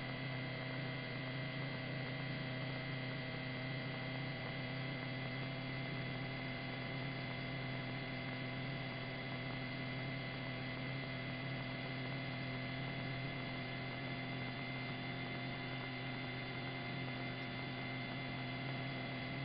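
Steady electrical hum with a thin high whine on the helicopter's radio and intercom audio between transmissions, unchanging throughout and with no voice or rotor rhythm.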